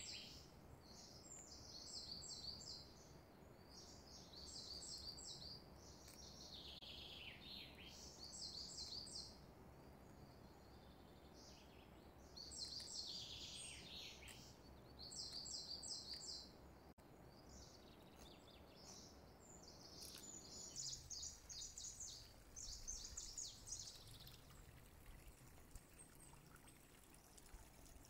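Faint birdsong: small birds chirping in repeated quick trills, a few with a falling sweep, over a faint steady low hum.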